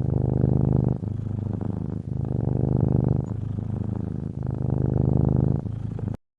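Cat purring close to the microphone, alternating louder and softer phases of about a second each, then cut off abruptly near the end.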